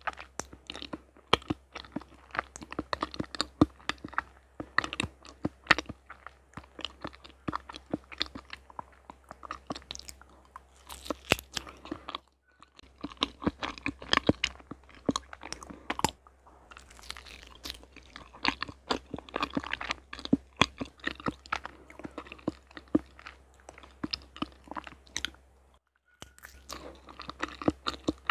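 Close-miked chewing of soft yellow cheesecake: a dense, irregular run of small mouth clicks, with short pauses about twelve seconds in and near the end.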